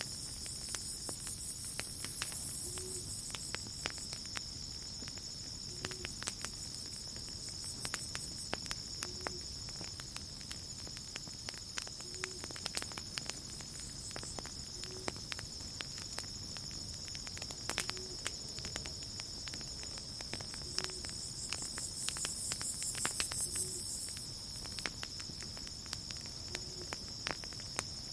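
Campfire crackling with scattered sharp pops over a steady high trill of crickets. A higher insect buzz swells near the start and again toward the end. A faint short low note repeats about every three seconds.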